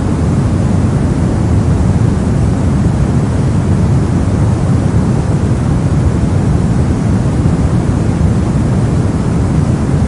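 Steady, unbroken noise of the sleep-aid kind, a deep even hiss with most of its weight in the low end, like a soft rumble.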